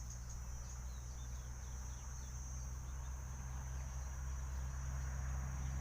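Steady high-pitched drone of insects, crickets or cicadas, with faint short chirps over it and a steady low hum underneath.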